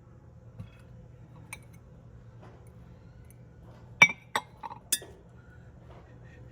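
Small hard objects clinking together as they are handled: a few faint taps, then four sharp clinks with a short ring, about four to five seconds in, over a steady low hum.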